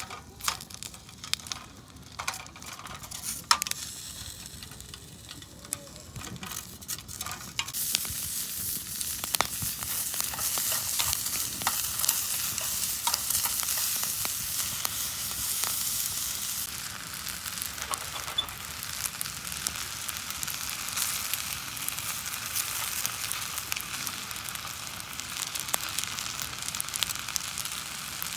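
Sizzling and crackling over a Belmont TABI compact fire pit: scattered crackles at first, then a steady high sizzle from about eight seconds in, with crackles through it.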